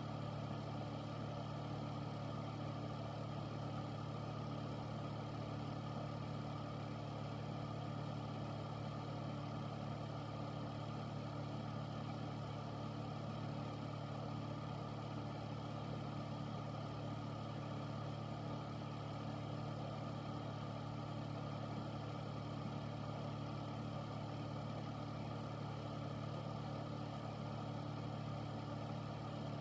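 Air purifier fan running steadily: an even whoosh of moving air over a low motor hum, unchanging throughout.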